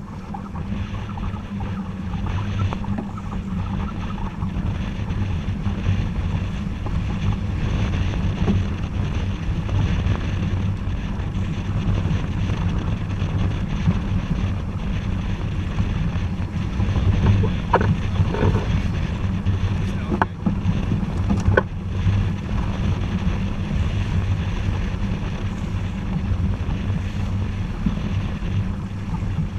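Wind buffeting the microphone and water rushing past the hull of a sailboat under way, over a steady low rumble. A few sharp knocks come about two-thirds of the way in.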